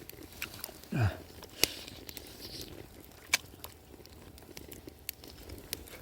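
A few scattered sharp clicks, and about a second in a short low voice sound that falls in pitch, like a grunt.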